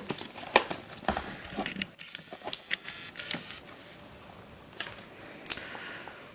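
Scattered light clicks and taps of small boxes and objects being handled and set down, with one sharper tap near the end.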